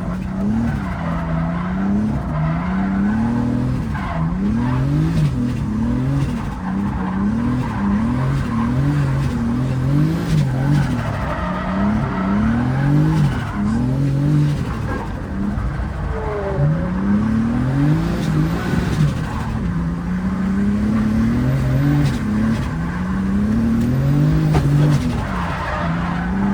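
Turbocharged BMW E30 drift car's engine revving up and dropping back over and over, its pitch rising and falling every second or two, with tyres skidding.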